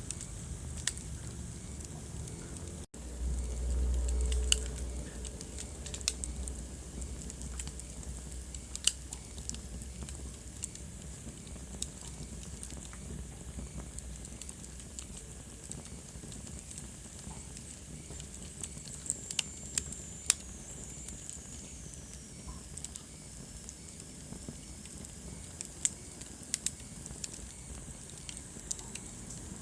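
Wood fire crackling, with sharp irregular pops over a steady hiss. The sound cuts out for an instant about three seconds in, then a low rumble swells for a few seconds. A thin, high whistle falls in pitch around the middle.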